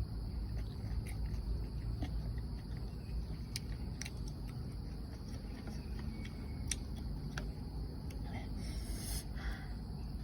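A few scattered light clicks and taps of utensils on a dish during eating, over a steady low rumble and a constant high hiss.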